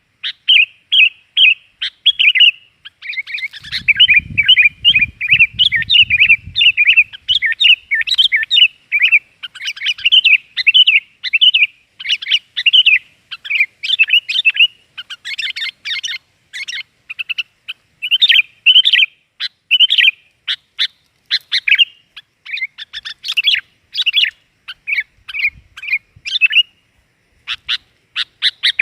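Sooty-headed bulbuls (kutilang) calling and singing without a break: loud, rapid, bubbling chattering phrases, typical of the lure calls used to attract this bulbul.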